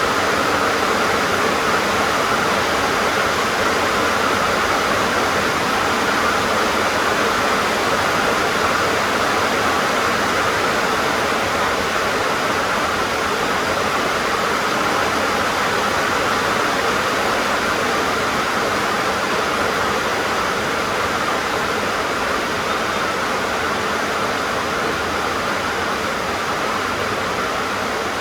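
Heavy rain drumming steadily on a tin roof, a dense even hiss with no breaks, easing very slightly toward the end.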